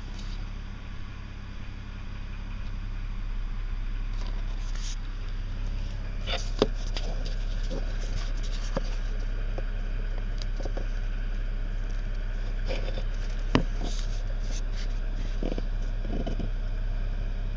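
2006 BMW 330i (E90) straight-six engine running with a steady hum and a knock described as sounding like a diesel, present all the time rather than only at cold start. A few sharp clicks stand out, about six and thirteen seconds in.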